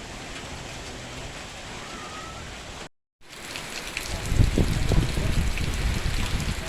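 Rain falling as a steady hiss. It breaks off into silence for a moment about three seconds in, then comes back louder, with heavy close drops spattering and pattering.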